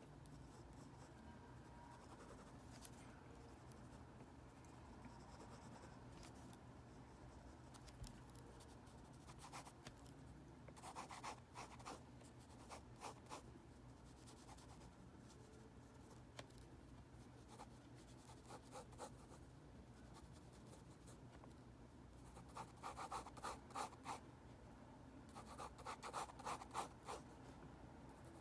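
Faint scratching of a drawing tool on paper, quick short strokes in clusters, with two busier runs of rapid strokes about ten seconds in and again near the end.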